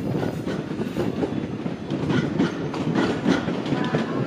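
JR Shikoku 8600 series electric express train running past, its wheels clacking over rail joints and points with a steady rumble underneath.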